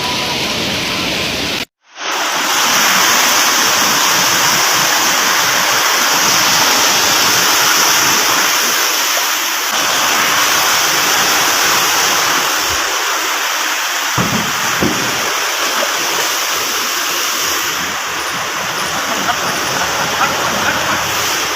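Floodwater of a river in spate rushing steadily, an even wash of water noise. It cuts out completely for a moment about two seconds in, then carries on unchanged.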